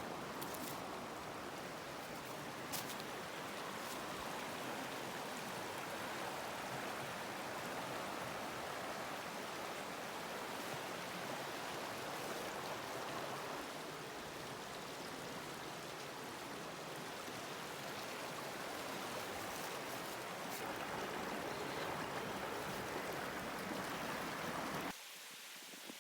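Steady rushing of a mountain stream flowing over rocks, with a few faint clicks; the sound cuts off abruptly near the end.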